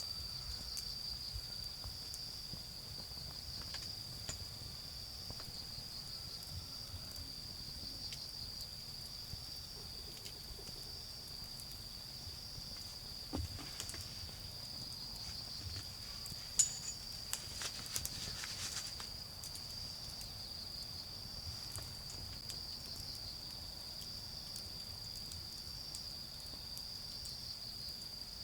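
Autumn crickets chirping in a steady, high, pulsing trill, over the occasional crackle and pop of a dying wood fire and its embers, with a cluster of pops just past the middle. A faint low rumble of distant road traffic runs underneath.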